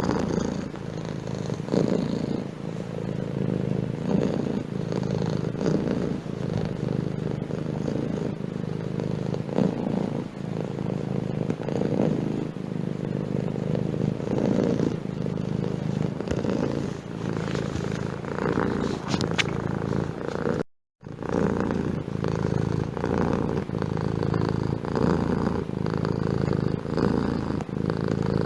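Domestic cat purring steadily and continuously, with a very short gap of silence about two-thirds of the way through.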